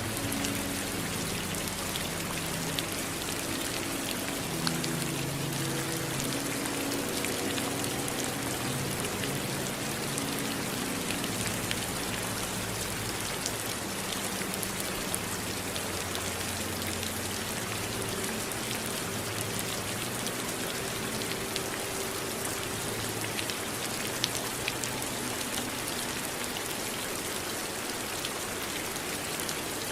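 Steady rain, with many individual drops pattering on a surface, and faint low sustained tones underneath.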